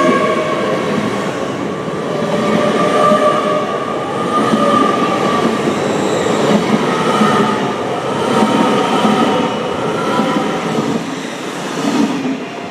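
Passenger train passing at speed close by: a steady rush and rumble of wheels on rail with high, wavering ringing tones over it. It fades near the end as the last coach goes by.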